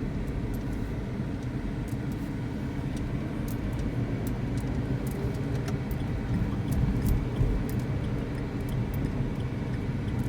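A car driving slowly, heard from inside the cabin: a steady low engine and road rumble, with a few faint scattered ticks.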